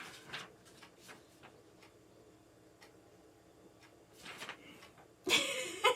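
A few faint, scattered clicks and taps from handling gaming-chair parts during assembly. A louder rustling noise comes near the end.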